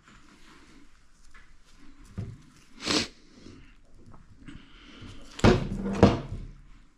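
Handling noises during repair work: a light knock, then a sharp clatter about a second later, then a rustling scrape that ends in two loud knocks near the end.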